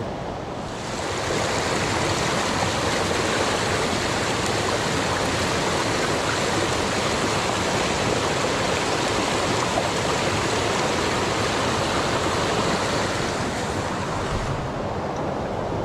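Rushing water of a mountain stream, a steady hiss that swells about a second in and eases off near the end.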